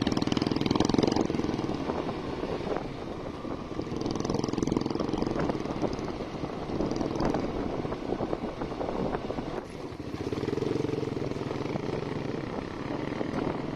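Motorcycle engine running steadily while riding along, with some road and wind noise.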